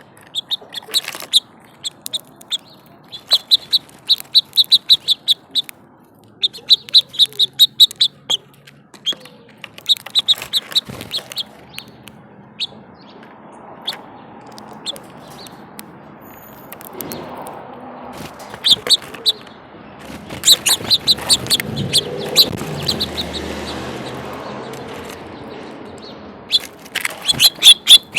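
Small songbirds chirping in quick runs of repeated high notes, each run a second or two long with pauses between. Midway a broad rushing noise swells for several seconds and fades, and the chirping picks up again near the end.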